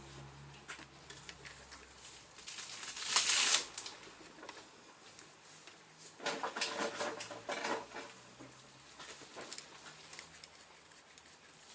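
Scattered clicks and knocks of hand tools and engine parts being handled during cylinder head refitting on a Mini A-series engine, with a louder rustling burst about three seconds in and a run of quick clicks around two-thirds of the way through.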